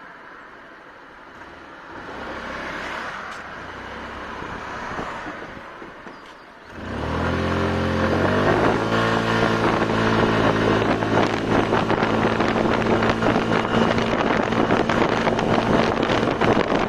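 Barton B-Max 125 cc scooter pulling away at full throttle about seven seconds in. The engine note jumps and climbs quickly, then holds a steady pitch as the automatic (CVT) transmission lets speed build at constant revs. Wind buffeting on the microphone grows as the scooter gathers speed.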